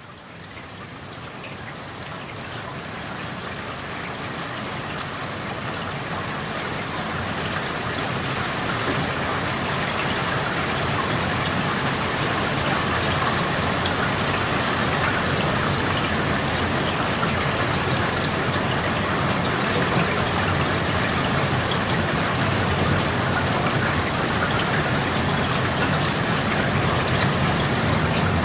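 Steady rain falling, with individual drops ticking through it, fading in over the first several seconds and then holding level.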